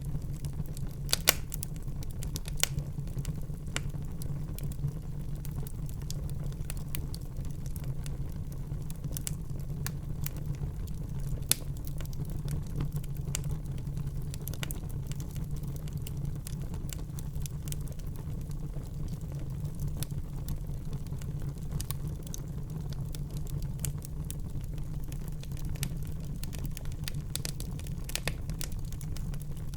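Wood fire burning in a fireplace: irregular crackles and sharp pops over a steady low rumble, with the loudest pops about a second in and again near twelve seconds.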